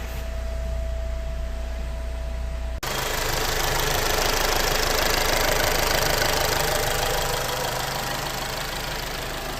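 Turbocharged Alfa Romeo engine running, newly started after long disuse. About three seconds in the sound changes abruptly to a louder, rougher engine noise that swells and then eases.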